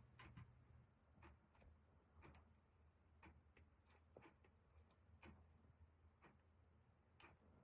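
Near silence: faint, regular ticking about once a second over a low steady hum.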